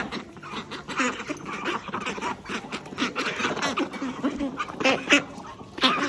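Ducks quacking in a busy run of short, repeated calls, the loudest ones about five and six seconds in.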